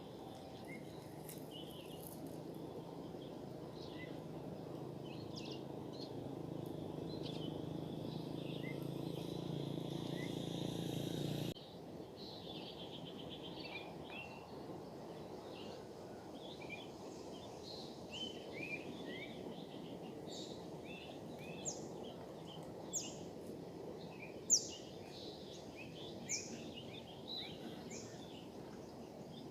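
Small birds chirping in many short calls over a steady outdoor background noise. In the first part a low hum grows slowly louder and then cuts off abruptly.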